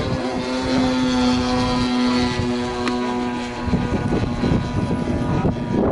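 Radio-control model aircraft flying: a steady engine-and-propeller drone holding an even pitch.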